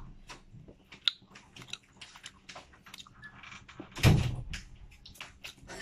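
Close-up chewing and mouth smacking of seedless red grapes: a string of small, wet-sounding clicks and snaps, with one louder, lower sound about four seconds in.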